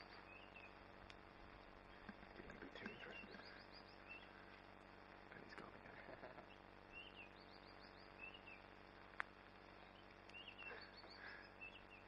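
Quiet bush ambience: birds repeat short, high chirping calls every couple of seconds, with one sharp click about nine seconds in.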